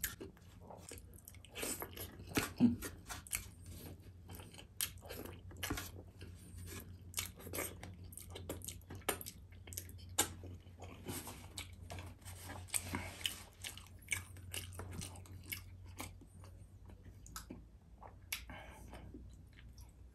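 Close-up mouth sounds of a person eating sauced rice by hand: wet chewing and lip and finger smacks, many small irregular clicks.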